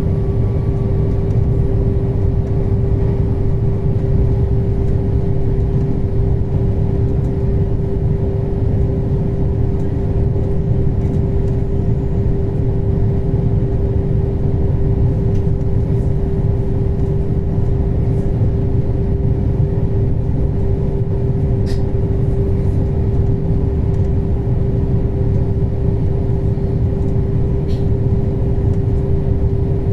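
Running noise inside a moving passenger train: a steady, heavy low rumble with a constant hum.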